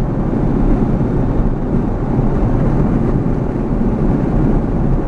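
Steady road and engine noise heard inside the cabin of a moving vehicle, a constant low rumble with no change in pitch.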